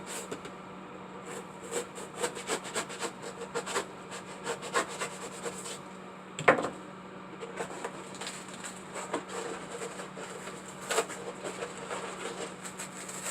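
Styrofoam being cut and carved by hand: irregular rubbing and scraping strokes, with one louder knock about six and a half seconds in.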